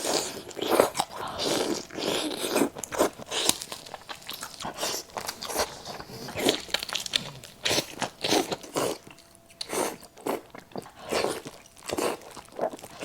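Close-miked mukbang eating: a person biting into and chewing crispy fried food, with irregular crunches, loud and quick for most of the time and briefly quieter a little past the middle.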